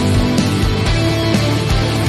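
Rock band playing an instrumental passage: electric guitar and bass over a steady drum beat.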